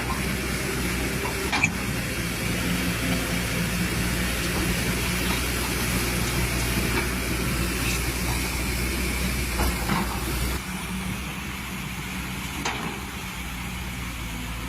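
Excavator's diesel engine running steadily, with a few sharp knocks; the engine sound drops a little about ten seconds in.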